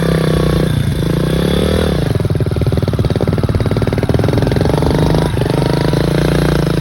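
Dirt bike engine running under throttle during clutch-ups. The note climbs until about two seconds in, drops to a slower, choppier note as the engine is loaded, then jumps back up a little after five seconds.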